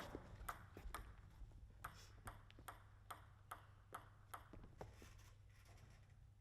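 Table tennis ball making a run of light, sharp clicks, about two or three a second.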